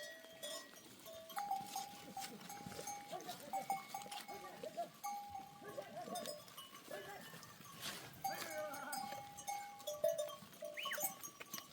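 A herd of goats bleating here and there, with the bells hung on the animals ringing and clanking as they move.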